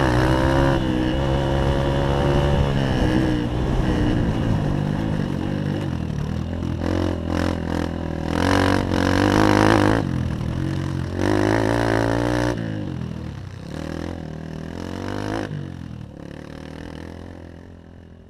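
Honda CRF150 dirt bike's single-cylinder four-stroke engine revving up and down under throttle, with two strong surges past the middle; then it drops to a lower, quieter run and fades out at the end.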